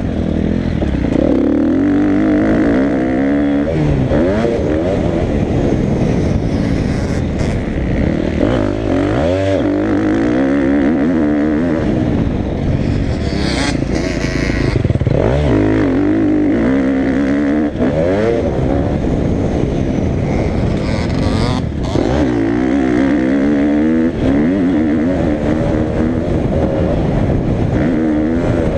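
Motocross bike engine being ridden hard, revving up and falling back over and over, with the throttle chopped sharply about every five or six seconds.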